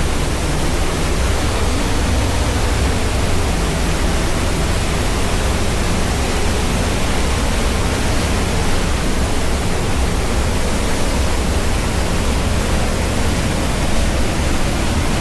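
Waterfall rushing, loud and steady, with a deep low rumble under the hiss of the falling water.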